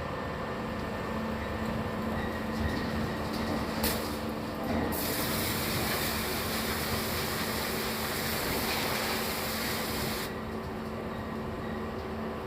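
Stick-welding arc sizzling steadily for about five seconds, starting about five seconds in, just after a brief click, and cutting off sharply near ten seconds, over a steady machine hum.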